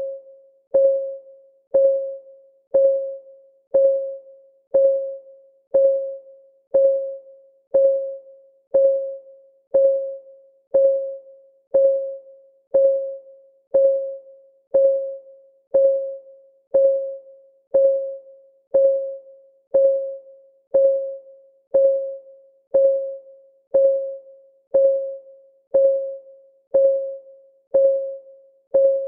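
Clock-ticking sound of a countdown timer: a short, pitched tick about once a second, each one fading quickly, in an even, unchanging rhythm.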